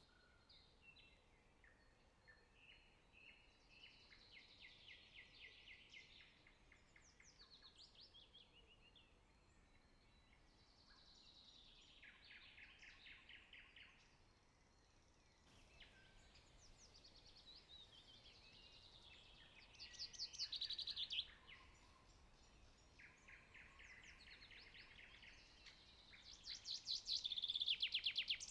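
A songbird singing faintly: trilled, descending phrases of two or three seconds each, about five of them spaced a few seconds apart, the last ones louder.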